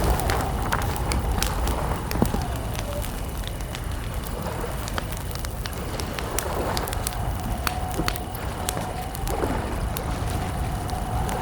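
Campfire crackling: scattered sharp pops and snaps over a steady low rumble. A thin whistling tone is held through it and dips in pitch now and then.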